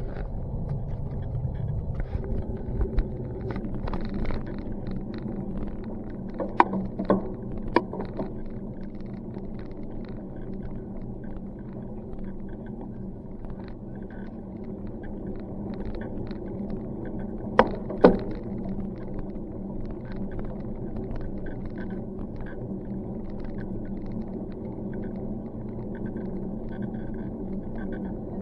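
Steady low rumble of a bicycle ride, with wind and tyre noise on the microphone. A few sharp knocks or rattles come through, a cluster about seven seconds in and two close together about eighteen seconds in.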